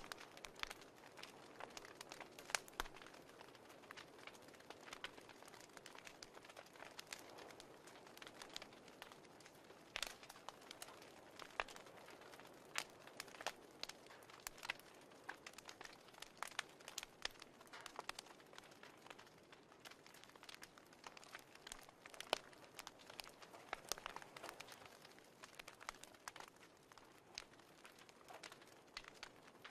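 Wood fire crackling: irregular sharp pops and snaps of varying loudness over a soft steady hiss.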